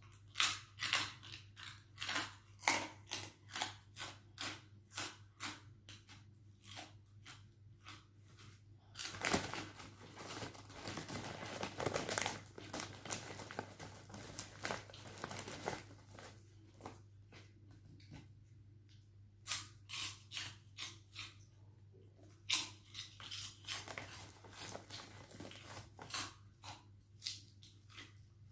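Crispy chicharon (fried pork rinds) being crunched and chewed close to the microphone: runs of sharp crunches about two a second, with a denser, steadier crackle for several seconds in the middle.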